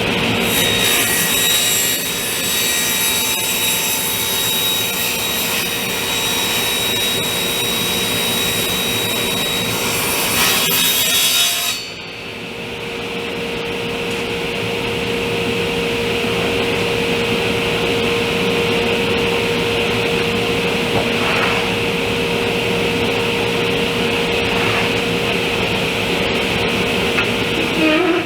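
Table saw cutting a wood cabinet panel, with a steady whine under the cut for about twelve seconds. Then the cutting noise stops suddenly and the saw runs on steadily without cutting.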